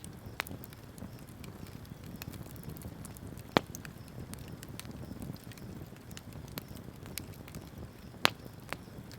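Wood bonfire burning with a steady low rumble and scattered small crackles, broken by two sharp, loud pops, one about a third of the way in and one near the end.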